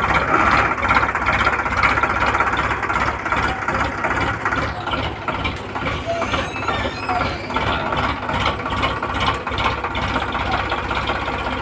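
Tractor's diesel engine running steadily with a low, even chugging pulse.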